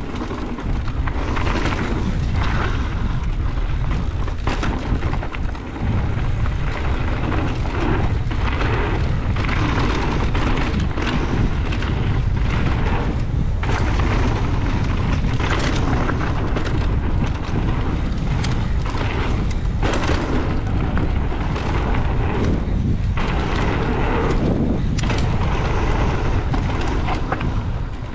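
Heavy wind buffeting the microphone of a mountain bike's ride-along camera, a steady low rumble, mixed with tyre noise on a dirt trail and frequent short knocks and rattles from the bike over the bumps.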